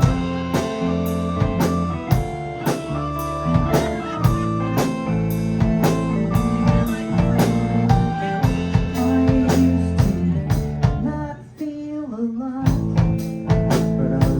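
Live rock band playing an instrumental passage on drums, guitar, bass and keyboards, with a steady drum beat. Near the end the drums and bass drop out for about a second, leaving a bending guitar line, before the full band comes back in.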